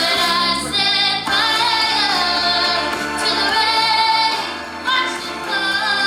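A teenage girl singing a pop-soul ballad live, with long held notes that waver in pitch.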